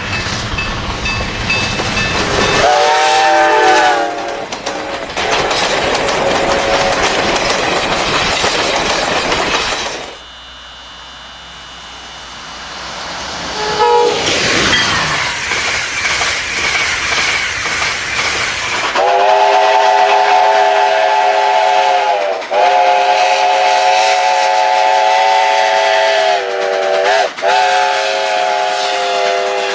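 A train running, with a short chord horn blast about three seconds in. After a quieter stretch in the middle, a long horn blast of several tones together is held for about ten seconds, dipping briefly twice.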